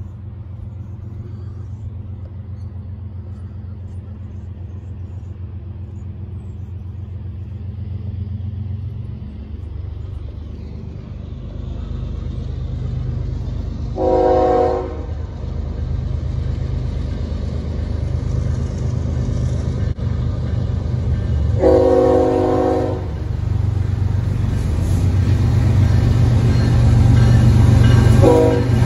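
Union Pacific diesel freight locomotives approaching, their rumble growing steadily louder. The multi-note air horn sounds a blast about halfway through, a slightly longer one about three-quarters through, and a short blast just before the end.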